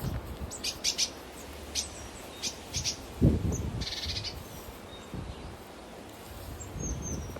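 Small birds chirping: a handful of short high chirps in the first few seconds and a brief buzzy trill around four seconds in. A low thump just after three seconds is the loudest sound, with softer low thuds near the start and end.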